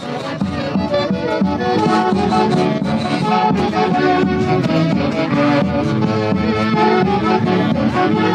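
Andean orquesta típica playing traditional festival music: saxophones and violins carrying a melody together.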